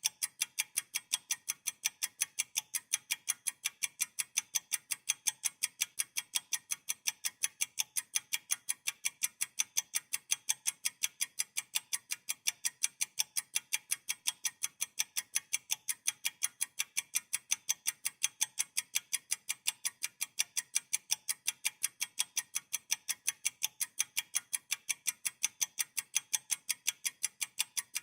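Rapid, perfectly even ticking, several ticks a second, with no other sound.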